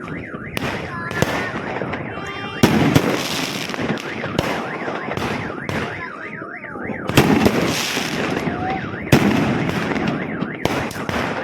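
Fireworks going off in a dense barrage: repeated sharp bangs over continuous crackling. A car alarm warbles rapidly up and down under them, once right at the start and again about six seconds in.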